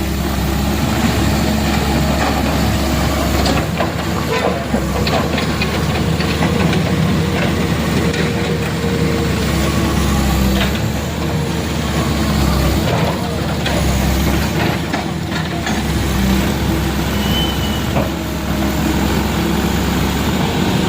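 Heavy truck engine running steadily, with occasional short knocks and clatter over it.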